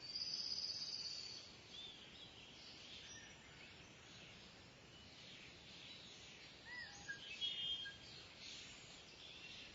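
Kingfisher calling: a shrill, high call lasting about a second at the start, then a few short high notes near the end. Other small birds chirp over a steady hiss of outdoor ambience.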